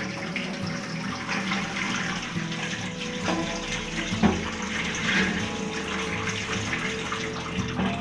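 Water running from a tap into a sink, a steady splashing rush, with a sharp knock about four seconds in.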